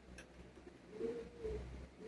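A bird cooing: a few short, low, soft notes about a second in, over a faint steady hum.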